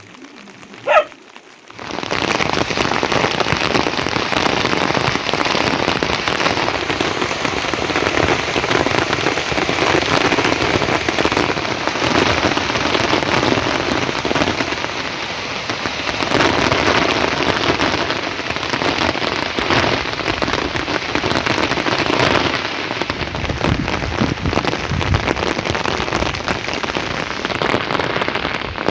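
A dog barks once, then heavy rain starts suddenly about two seconds in and pours steadily, a dense patter of drops on hard surfaces.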